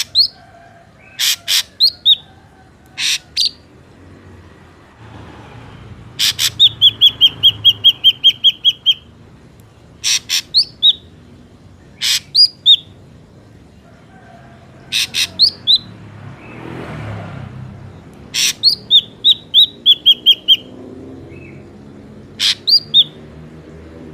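Ashy drongo calling: sharp, clear notes in groups of two to four, separated by pauses of a second or two, and twice a fast run of about a dozen or more quick repeated notes.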